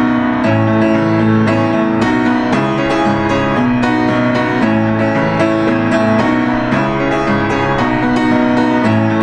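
Background music led by piano, a gentle melody of notes struck about twice a second over sustained lower chords.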